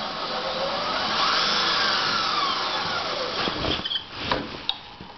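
Electric drive motor of a battery-converted Toro reel mower running, with a whine that rises then falls in pitch over a couple of seconds. A few short knocks come near the end.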